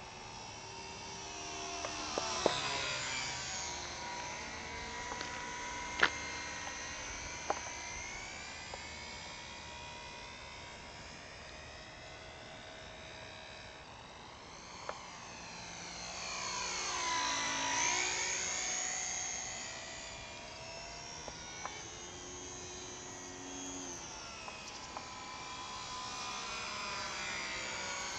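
Hobby Zone Super Cub LP RC plane's electric motor and propeller whining in low fly-bys, swelling as it passes close about two seconds in and again near the middle, with the sound sweeping as it goes by. A few sharp clicks early on.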